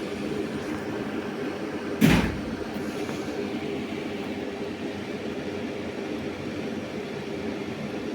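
Steady machine hum, with one sharp knock about two seconds in.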